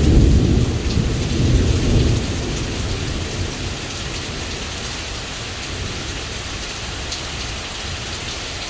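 Heavy thunderstorm rain pouring down steadily, with a loud low rumble of thunder that dies away about three seconds in.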